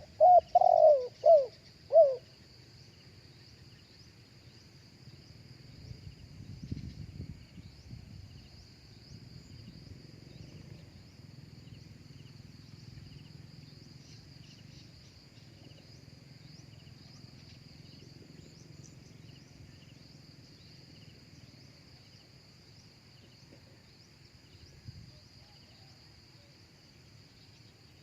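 A spotted dove gives one short cooing phrase of about five notes in the first two seconds. After it comes a long stretch of faint steady high insect drone.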